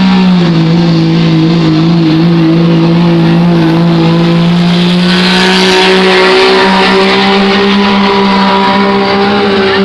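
A pulling tractor's engine running hard and steady under heavy load as it drags the weight sled down the track. The engine pitch dips slightly near the start, then holds and creeps slowly upward.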